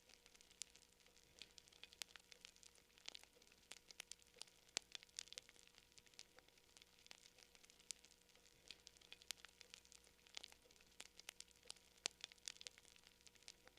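Quiet campfire crackling: frequent irregular sharp pops and snaps of burning wood, varying in strength, over a soft hiss.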